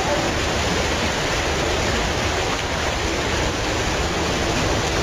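Torrential rain pouring down onto a flooded street, a loud, steady hiss of falling and running water.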